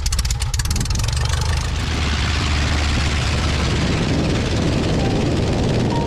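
Light aircraft's piston engine and propeller, on the Aeronca Super Chief, speeding up from a pulsing beat over the first second or so, then running steadily at high power.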